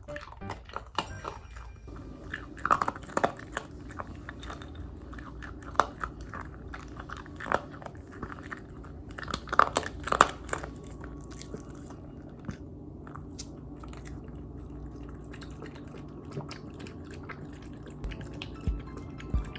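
A Bichon Frise crunching dry kibble, with irregular sharp bites and chews. The crunching is busiest in the first half and thins out after about twelve seconds.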